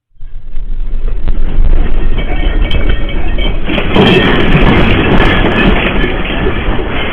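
Loud, continuous rumbling and rattling of a building shaking in an earthquake. It starts abruptly and grows stronger about four seconds in.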